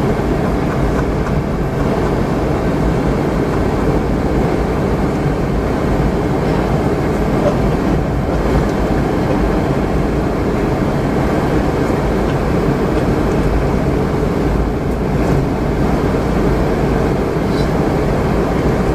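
Steady in-flight cabin noise of a Boeing 717-200 airliner: the constant rumble and hiss of its rear-mounted turbofan engines and the airflow past the fuselage, unchanging throughout.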